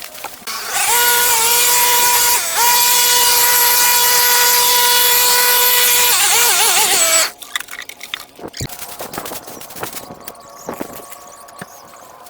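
A high-speed power tool motor running at a steady high-pitched whine, dipping briefly once, then wobbling and winding down with falling pitch about seven seconds in, followed by light knocks and clicks.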